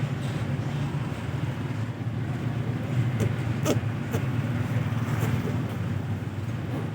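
Road traffic: a steady low engine rumble from passing vehicles, with a few brief higher sounds partway through.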